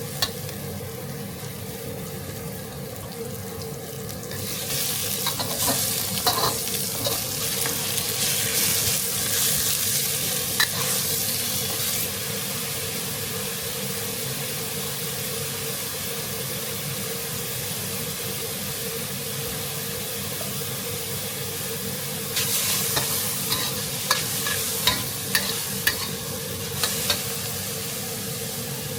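Food sizzling in a hot pan as it is stir-fried, with a spatula clacking and scraping against the pan in two busy spells, the second near the end, over a steady hum.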